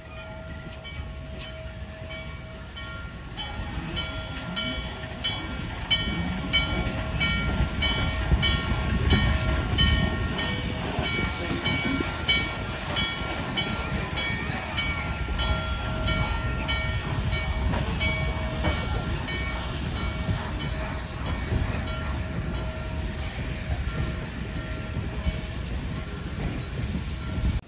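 Steam-hauled passenger train of Norfolk & Western 611 rolling past, a low rumble that builds over the first few seconds and then holds. Wheels click over rail joints at a steady beat of about two a second, with steady ringing tones above.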